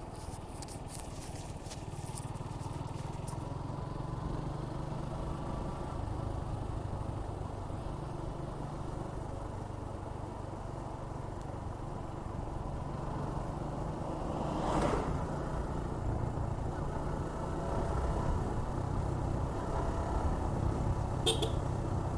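Suzuki Gixxer 155's single-cylinder engine running steadily under a light throttle at easy riding speed. A brief louder rush of noise comes about fifteen seconds in.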